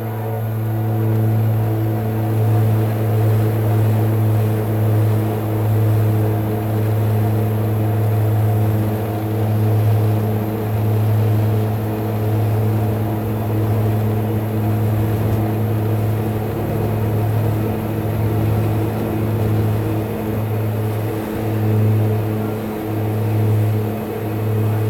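Twin Garrett TPE331 turboprop engines and propellers of a BAe Jetstream 32 heard from inside the cabin: a loud, steady, low propeller drone with a buzzing overtone, pulsing slowly near the end.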